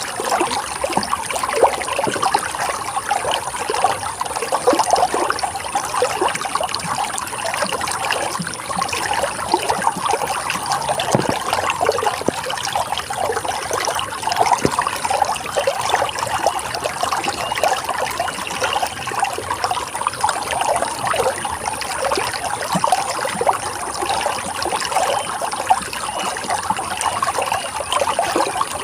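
Running water trickling and splashing steadily, a dense patter of small splashes with no pauses.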